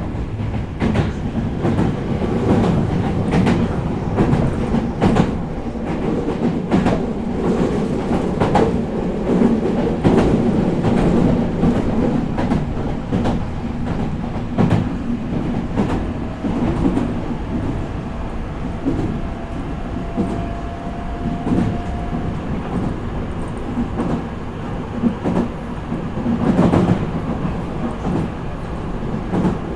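Meitetsu 4000 series electric train running between stations, heard from inside the car: a steady rumble with repeated clicks of the wheels over the rail joints. A faint thin steady tone comes in for several seconds around the middle.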